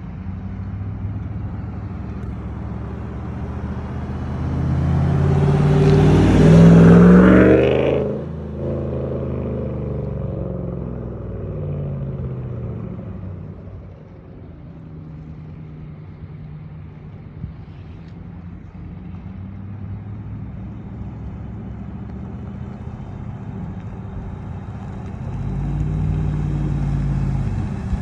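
Ram 1500's exhaust through a Carven Progressive Series muffler during a short acceleration pull. The engine note rises in pitch and loudness for a few seconds, then drops off suddenly as the throttle comes off, and settles into a steadier drone. It swells again near the end.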